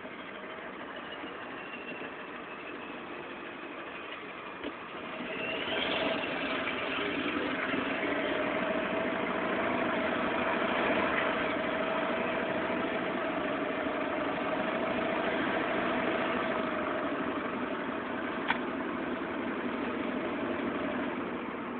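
Truck engine running in a tunnel with its turbocharger whistling. About five seconds in, a whistle rises in pitch as the turbo spools up and the engine gets louder, then both hold steady. One sharp click near the end.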